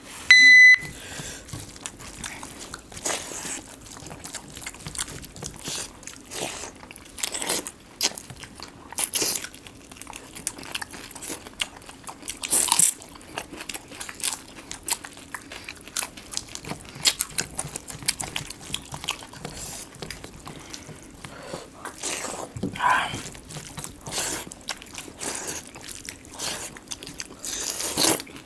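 Two people eating rice and prawn masala curry with loud chewing, crunching and wet mouth clicks, irregular and close to the microphone. A short high beep sounds just after the start.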